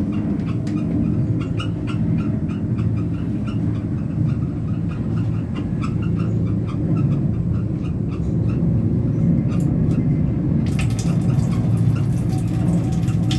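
Passenger train running, heard from inside the carriage: a steady low rumble with light, regular rattling clicks. About eleven seconds in, a loud hiss starts and carries on.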